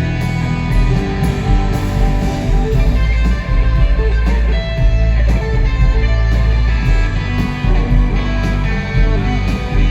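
Rock band playing live: electric guitar over bass and drums, loud and sustained.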